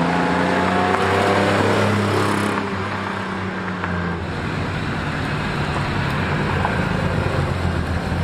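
Nissan 300ZX's naturally aspirated V6 as the car drives by, its engine note dipping slightly in pitch over the first two seconds and then settling into a steadier low drone.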